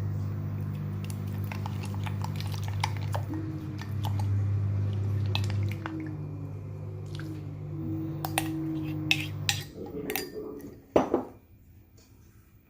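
Utensil clinking and scraping against a mixing bowl while a liquid mixture is stirred, over a steady low machine hum that stops abruptly about ten seconds in. A few louder knocks follow near the end.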